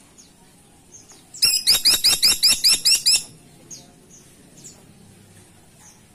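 A caladi woodpecker gives a fast, loud series of about ten sharp calls over nearly two seconds, starting about a second and a half in. Faint short chirps are heard before and after.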